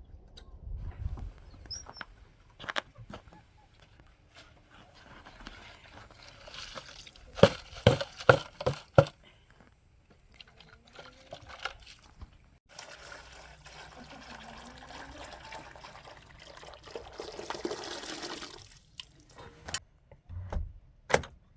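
Liquid pouring or running in a longer steady stretch in the second half, after a quick run of about five sharp knocks around the middle.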